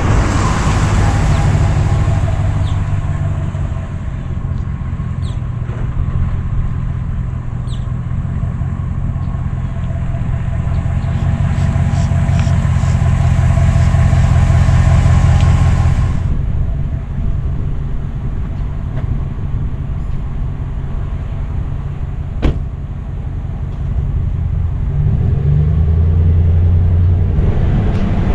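Ram 1500 pickup's 5.7-litre HEMI V8 running steadily, with a hiss over it that stops abruptly about sixteen seconds in. A single sharp click comes near the end.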